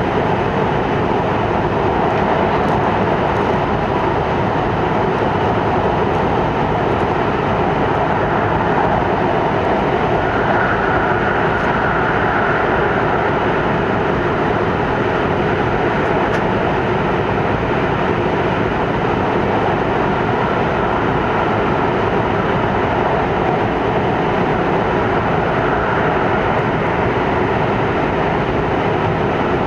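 Shinkansen train running at 210 km/h through the Seikan Tunnel, heard from inside the passenger cabin: a steady, loud wash of wheel-on-rail and tunnel air noise.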